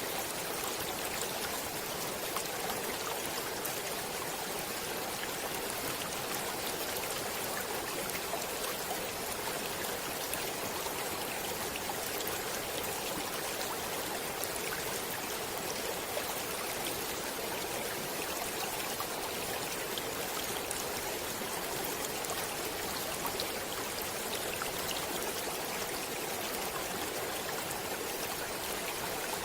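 Stream water running and splashing over rocks: a steady, even rush with small droplet splashes scattered through it.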